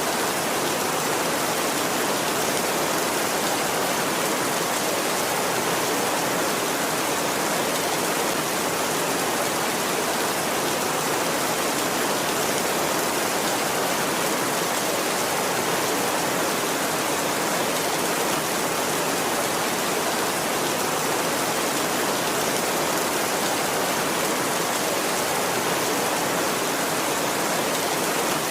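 Heavy rain drumming steadily on a tin roof, an even, unbroken hiss with no thunder.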